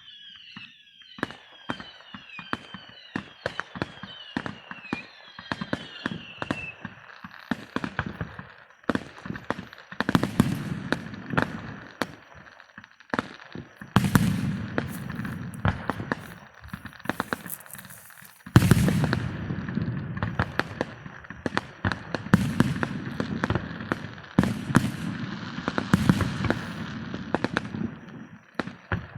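Fireworks going off: a quick run of short falling whistles for the first several seconds, then dense crackling and popping broken by heavier bangs, the loudest about two-thirds of the way through.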